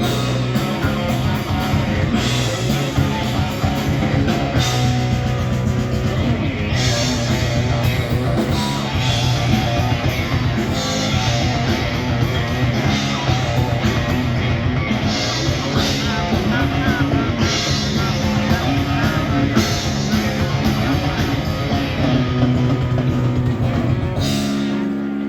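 Rock band playing live, with electric guitar, bass and drum kit driving a steady beat. Just before the end the drumming stops and held chords ring on.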